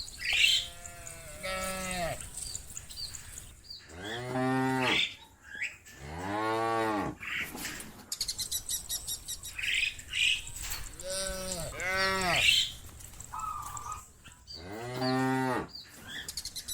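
Cows mooing, about five long moos in turn, each rising and then falling in pitch, some deep and some higher-voiced.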